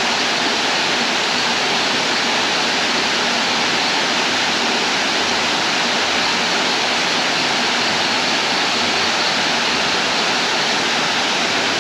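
A tall waterfall's falling water: a steady, loud rushing with no breaks.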